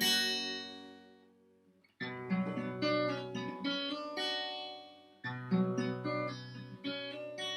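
Acoustic guitar strumming chords that ring out and fade, with a short pause about a second and a half in before the strumming starts again.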